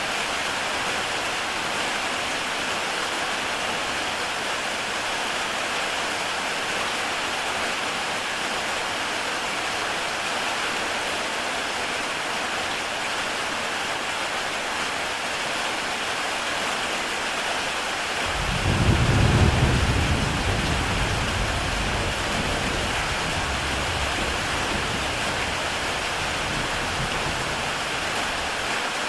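Heavy rain falling steadily on a tile roof. About two-thirds of the way through, a deep roll of thunder rises, then fades slowly.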